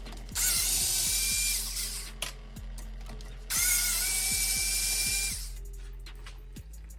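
A power tool runs in two bursts of about two seconds each, its whine rising as it spins up and then holding steady, most likely running out the bolts on a mini-truck transmission case. Background music with a steady beat plays throughout.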